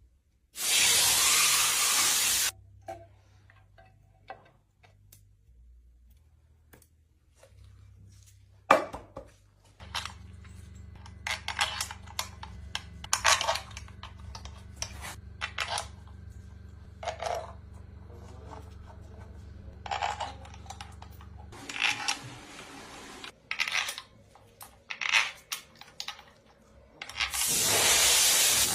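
Engine workshop work: metal tools and engine parts clinking and clicking, with loud bursts of hissing near the start, about two thirds of the way in, and again near the end, and a low steady hum running for about twelve seconds in the middle.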